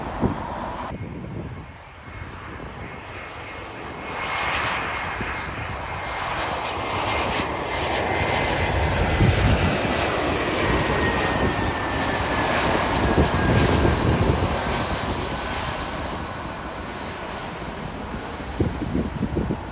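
Airplane passing close by: engine sound building to its loudest about halfway through, with a high whine that slowly falls in pitch as it goes past.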